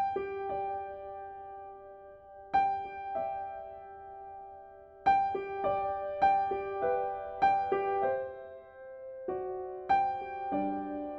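Slow, gentle piano music: single notes and small chords struck every half second to two seconds, each left to ring and fade, with lower notes joining near the end.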